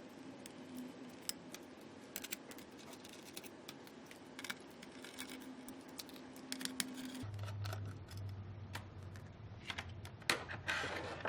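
Small metal clicks and scrapes of hand tools on hex standoff nuts being unscrewed from a ventilator's circuit-board mounting, over a faint steady hum. A louder click and a brief rustle come near the end.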